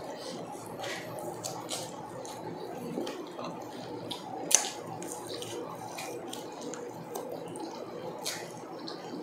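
Close-miked eating sounds: wet chewing and lip-smacking with scattered short clicks, one louder about four and a half seconds in, as roast chicken and pork barbecue are eaten by hand off plates and skewers.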